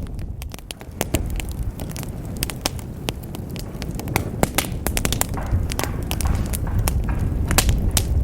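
Wood fire crackling in a fireplace: a steady low rumble of flames with many sharp, irregular pops and snaps.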